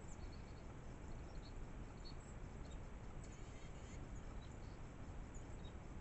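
Faint, scattered short high bird chirps from somewhere off the feeder, over a steady background hiss from the trail camera's microphone.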